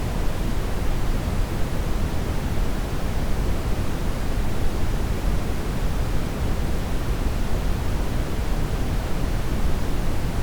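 Steady brown noise: a constant, deep rushing hiss, heaviest in the low end, with no changes.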